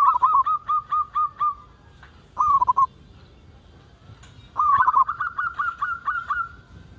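Zebra dove (perkutut) singing, with rapid runs of short cooing notes at about four to five notes a second. There are two main phrases, one at the start and one from about four and a half seconds in, with a brief burst of notes between them.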